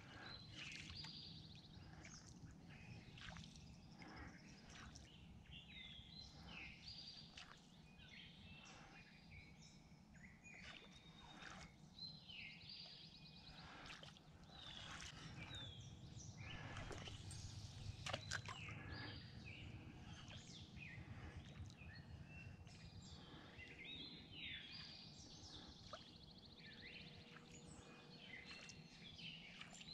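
Faint birdsong: several birds giving short chirps and whistles over a low, steady outdoor background hum, with one sharp click about eighteen seconds in.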